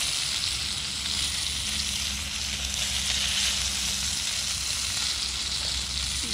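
Crumb-coated flathead fillets frying in hot oil in a pan, with a steady sizzle.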